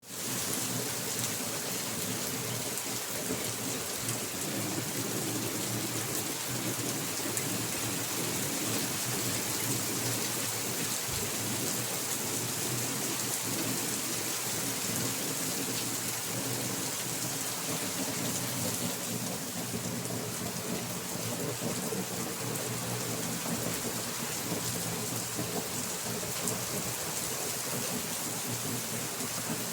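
Rain falling steadily as a dense, even hiss that holds without break.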